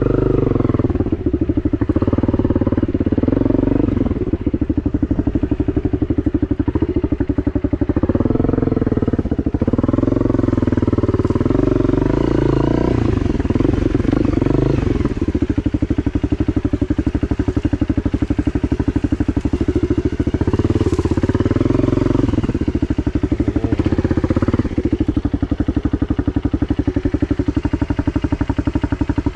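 Honda CRF250 dirt bike's single-cylinder four-stroke engine running under load as the bike is ridden, its revs rising and falling over and over with throttle and gear changes.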